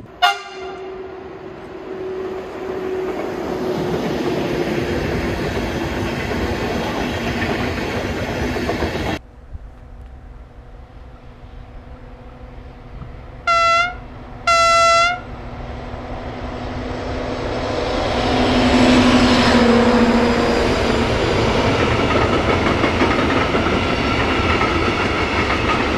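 A Class 182 electric locomotive running with its train, with a brief horn note at the very start, until the sound breaks off about nine seconds in. Then a V 180 diesel locomotive sounds two horn blasts, the second longer, and its train approaches and passes with rising rail noise and clickety-clack of the wheels, loudest about ten seconds after the horn.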